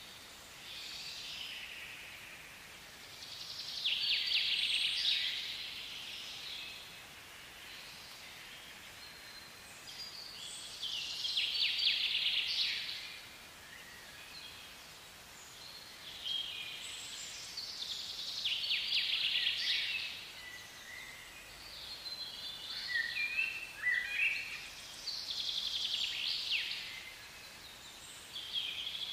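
A songbird singing short trilled phrases about every seven seconds, with fainter bird calls between them over a steady faint hiss of forest ambience.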